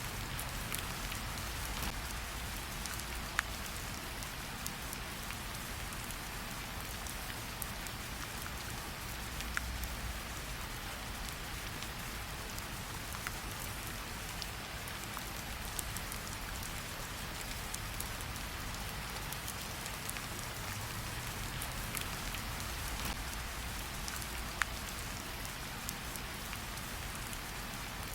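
Steady rain pattering on a surface, with a few sharp crackles from a campfire.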